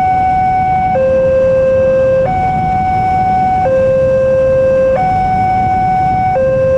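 A railway level crossing's electronic warning alarm sounding a loud two-tone hi-lo signal. Each tone is held about 1.3 seconds before it switches, with a low traffic rumble underneath.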